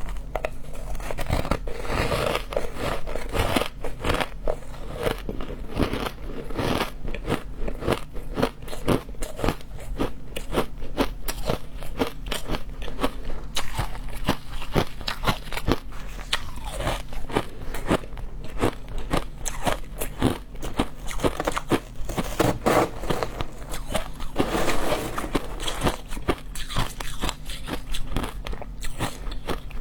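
Frozen matcha ice being bitten and chewed: a continuous, dense run of crunches and crackles.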